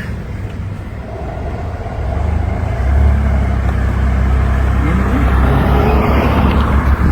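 A motor vehicle running, its low rumble growing louder about two seconds in and staying strong, with an engine note rising in pitch around the middle.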